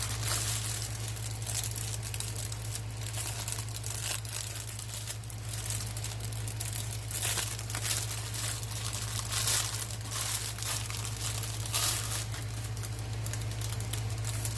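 Plastic packaging of a diamond painting kit crinkling and rustling in the hands as it is opened, with some tearing, in irregular crackles, over a steady low hum.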